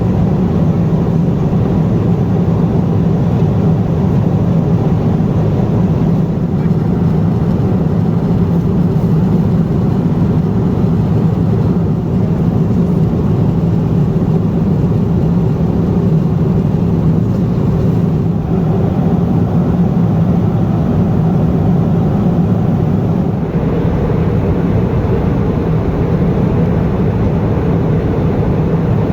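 Steady cabin noise of a Boeing 777-200ER airliner in cruise: a constant low rush of engine and airflow noise.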